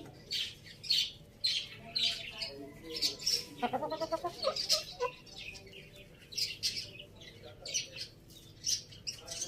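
Bird chirps, short and high, repeating about once or twice a second, with one lower, fuller call a little before the middle.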